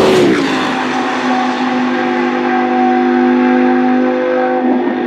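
A racing car's engine passing by: its note drops sharply in pitch a fraction of a second in, then holds a steady, loud pitch that shifts again near the end.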